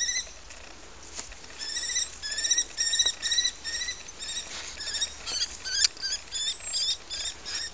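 Common kestrel calling: runs of rapid, shrill repeated notes, about five a second, with short breaks between the runs.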